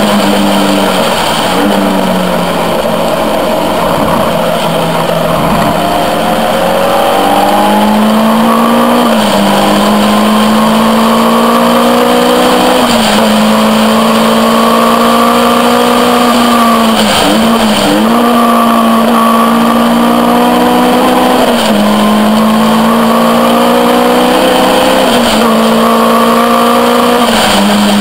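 Caterham R400's four-cylinder engine under hard acceleration on track. The note climbs steadily and drops sharply at each upshift, about five times, with a brief lift and pick-up just past halfway.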